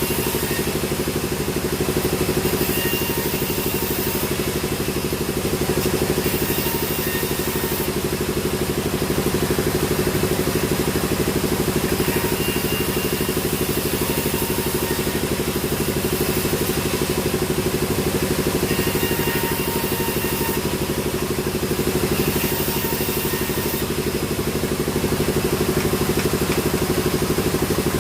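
Sawmill machinery running steadily, a constant engine-like hum with small swells in loudness every few seconds.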